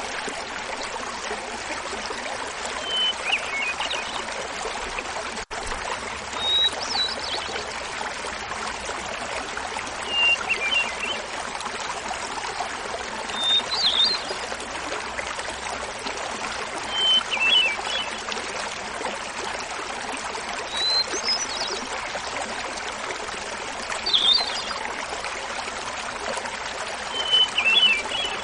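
Hermit thrush singing eight flute-like phrases at intervals of about three and a half seconds. Each phrase opens on a single held note and is followed by a quick tumbling cluster, pitched higher or lower in turn. Behind it a small mountain waterfall runs steadily, with a brief dropout about five seconds in.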